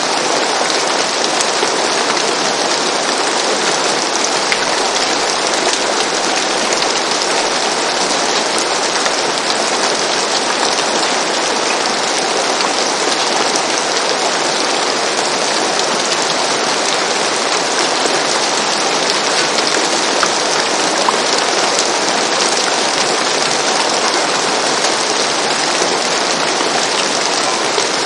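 Steady, even rain falling on a surface, with dense patter and fine scattered drop ticks.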